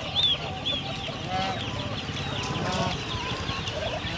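Chickens clucking, with many short high cheeping calls repeating in quick succession, over a steady hiss of rain.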